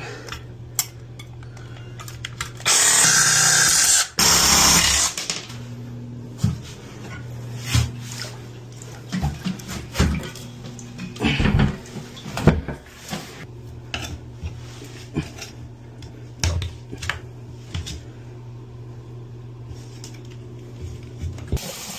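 A small power cutting tool runs for about two and a half seconds, with a brief break partway, cutting off toilet closet bolts that keep spinning. Scattered clicks and knocks of parts being handled follow, over a steady low hum.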